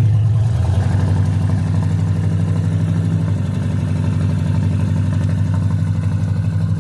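A 1977 car's engine running steadily with a low, even drone; its pitch drops slightly about a second in.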